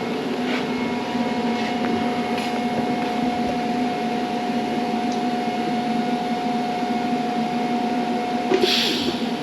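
TIG welder arc running steadily with a buzzing hum while welding rusty, unbrushed steel seat-frame brackets; the arc stops near the end, just after a brief hiss.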